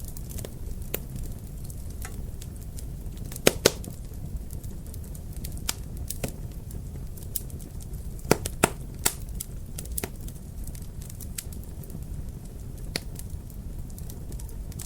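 Wood fire crackling over a low steady rumble, with irregular sharp pops. The loudest come as two quick pops about three and a half seconds in and another pair near eight and a half seconds.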